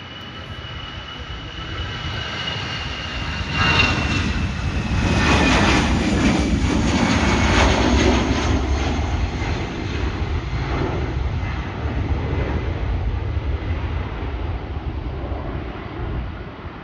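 Jet airliner passing close by. A high engine whine drops in pitch as it goes past, and a loud roar swells about three and a half seconds in, then eases off to a steady rumble.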